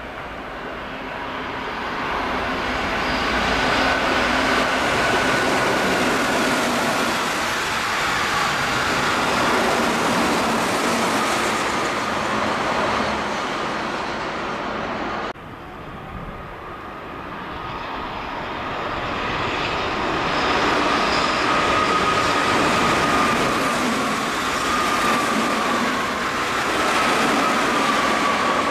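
Two Keihan electric trains passing through a station at speed, one after the other, with an abrupt cut between them about halfway through. The first is a red-and-yellow Keihan 8000 series; the second is a green-and-white Keihan train. Each pass builds from a distant rumble to a loud rush of wheels on rail, with a steady high whine that sinks slightly in pitch and stays loud for several seconds.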